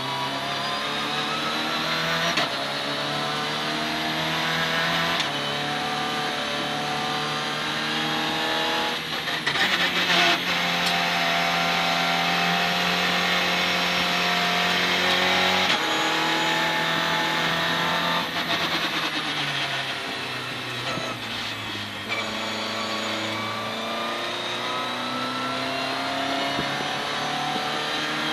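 Citroën C2 R2 Max rally car's four-cylinder engine heard from inside the cabin, revving hard through the gears. The pitch climbs and drops sharply at each upshift, holds high for a few seconds, then falls as the car slows before rising again.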